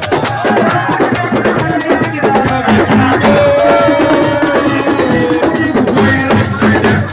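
Live assiko band music: a fast, dense beat of drums and shakers, with a melody line held over it.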